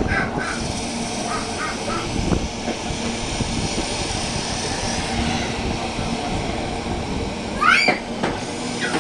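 Bird calls: a few short calls in the first two seconds, then one louder call rising in pitch near the end, over steady outdoor background noise.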